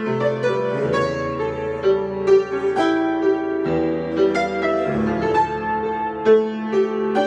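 Solo piano improvisation, with a melody of struck notes over sustained lower chords.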